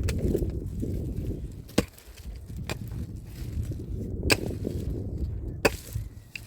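A hand digging tool, such as a pickaxe, striking and scraping into soil and stones. There are about five sharp, irregularly spaced strikes over a low, continuous scraping.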